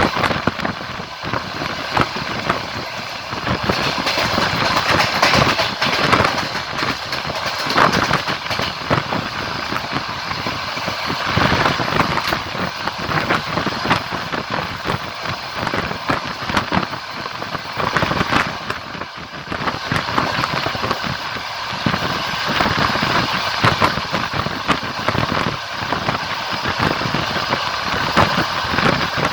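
Passenger train running at speed, heard from a carriage window: steady rolling noise of the wheels on the rails, with the clatter of wheels over rail joints.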